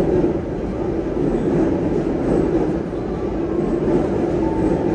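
Sydney Trains double-deck electric passenger train moving past a station platform, a steady rolling rumble of wheels and motors.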